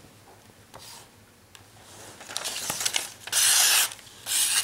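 A knife edge slicing through material in hissy scraping strokes, building up about two seconds in, then two loud strokes near the end, as a sharpness test of the blade.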